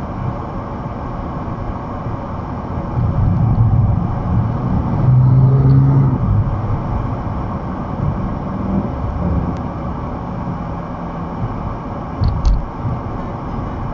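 Car driving, heard from inside the cabin: steady engine and road noise, swelling with a louder low engine note about four to six seconds in. A brief knock comes near the end.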